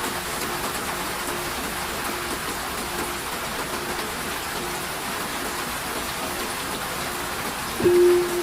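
Steady rain falling, an even hiss of drops. Near the end a singing bowl is struck and rings with one sustained, pulsing tone; a faint tone at the same pitch lingers under the rain before it.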